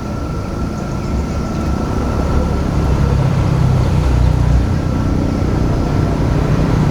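Boat engine running steadily with a low rumble and a thin whine, getting louder over the first few seconds.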